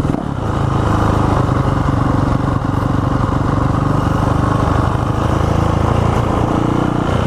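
Dirt bike engine running steadily at a held throttle, close to the microphone, with a short dip in level just after the start.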